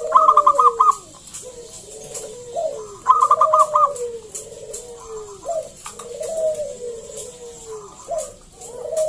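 Zebra dove (perkutut) cooing repeatedly in rolling, descending phrases. The loudest parts are quick stuttering notes right at the start and again about three seconds in.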